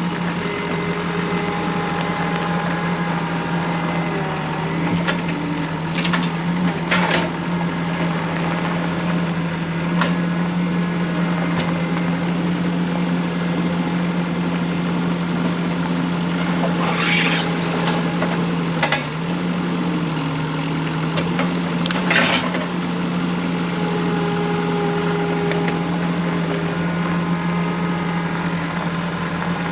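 Sawmill engine running at a steady speed, with a few short sharp noises about 6, 7, 17 and 22 seconds in.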